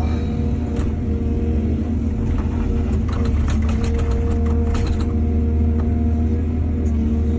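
Excavator's diesel engine running steadily, with a run of rapid clattering knocks about halfway through.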